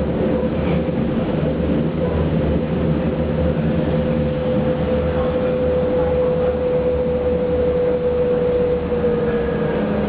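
Berlin commuter train running, heard from inside the carriage: a steady rumble of wheels on the rails with a constant whine that dips slightly in pitch near the end.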